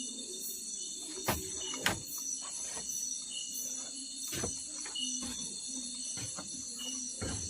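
Night insect chorus of crickets, a steady high drone, with a short low call repeating every second or so. A few sharp knocks break in about a second in, near the middle and near the end.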